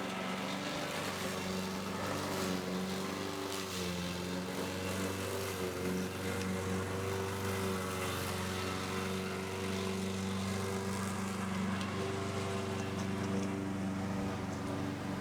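A steady engine drone whose pitch wavers slightly.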